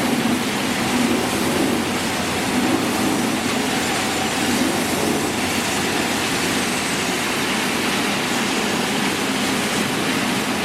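Industrial plastic crate washing machine running: a steady rushing noise of its water sprays and machinery.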